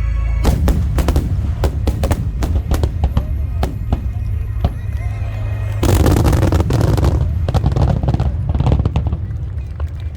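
Fireworks bursting in quick succession with sharp cracks over a steady deep rumble and music, thickening into a dense barrage about six seconds in, then easing off near the end.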